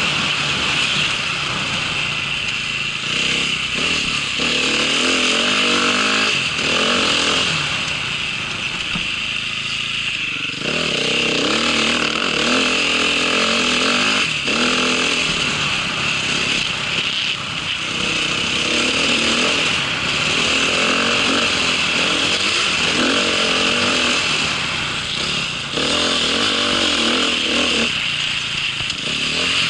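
A small vehicle engine running, with its revs rising and falling in repeated surges every few seconds over a steady rushing noise.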